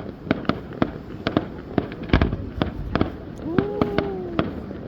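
Fireworks display: an irregular, rapid series of sharp bangs and crackles, with a deeper boom about two seconds in.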